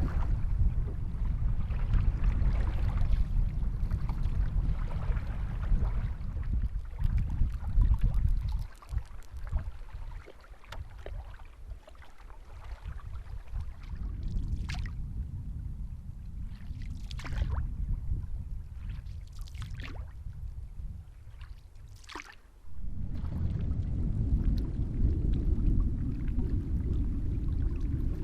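Canoe paddling, with wind rumbling on the microphone. In a calmer stretch in the middle, four separate swishes of the paddle in the water come about every two and a half seconds. The wind rumble returns suddenly near the end.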